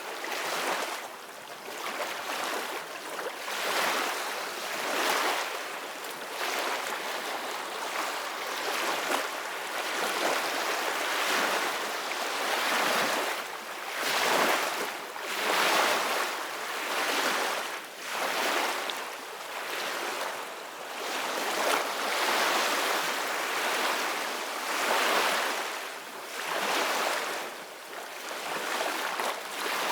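Ocean waves breaking and washing on a shore, a steady rush of surf that swells and eases every second or two.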